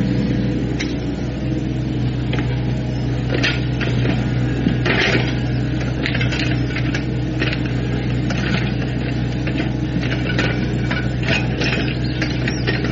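JCB JS160 tracked excavator's diesel engine running steadily under load while it digs, with irregular crunching and clattering of soil and stones being scooped and dropped.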